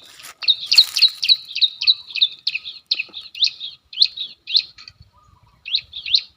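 Bar-winged prinia (ciblek) call played as a lure to bring wild birds down to the lime sticks: a fast series of sharp rising chirps, about three a second, that breaks off about five seconds in and starts again just before the end.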